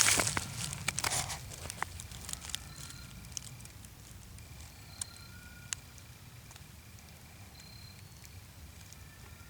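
Footsteps crunching through dry fallen leaves, loud at first and then thinning to scattered crackles that fade after a few seconds. A few faint, short, high thin tones sound now and then over a low steady rumble.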